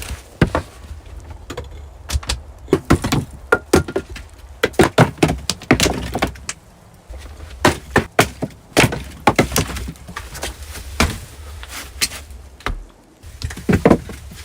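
A run of irregular sharp knocks and cracks with some dull thuds, a dozen or more hits spread unevenly, busiest in the middle.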